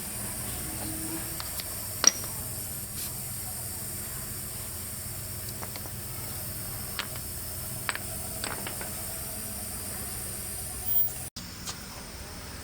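Nissan Sunny engine running steadily with a low hum and a hiss, broken by a few sharp clicks, the loudest about two seconds in; the sound cuts out briefly near the end.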